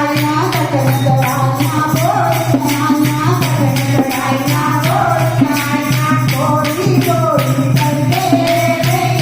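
Devotional kirtan bhajan sung to the Mother Goddess, a sung melody over a steady beat of jingling hand percussion.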